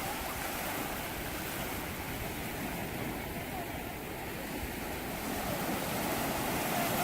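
Sea surf washing onto a beach, a steady rush of waves that swells a little near the end, with wind rumbling on the microphone.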